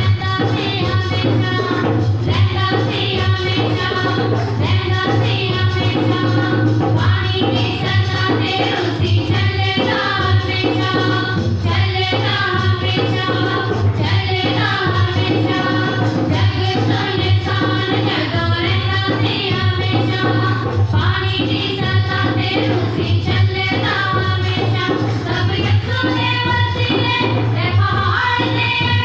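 Punjabi Christian worship song: voices singing a melody over instrumental backing.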